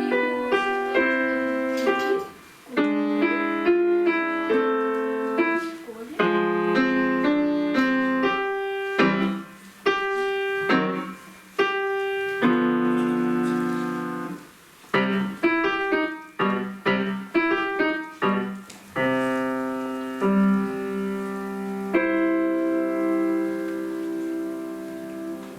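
Solo piano piece: phrases of struck notes and chords separated by short pauses, ending on a long held chord that slowly fades.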